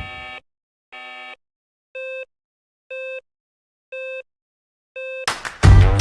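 Six short electronic beeps about a second apart: the first two lower and fuller, the last four a higher, identical tone. Music comes in loudly near the end.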